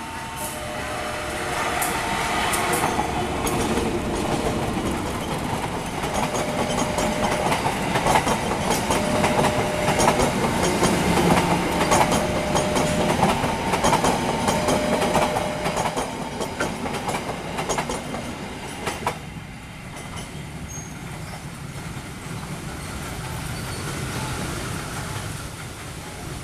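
Passenger train passing, its wheels clattering over the rail joints; the noise is loudest in the middle and fades away after about 19 seconds. Through the first two-thirds a two-tone warning signal keeps sounding, switching back and forth between a lower and a higher note.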